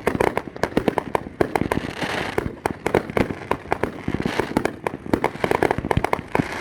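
Fireworks going off in a dense, rapid string of sharp bangs and cracks, many per second, with swells of crackling about two seconds in and again past the middle.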